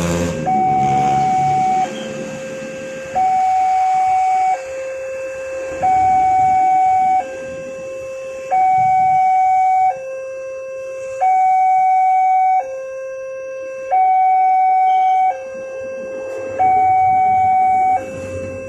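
Railway level crossing warning alarm: an electronic two-tone signal alternating steadily between a higher and a lower tone, each held about a second and a quarter.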